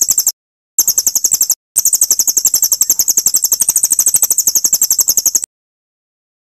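Songbird's rapid trill of high, sharp chirps at about eleven notes a second, in three runs: a brief one at the start, another about a second in, and a long one of nearly four seconds that cuts off suddenly.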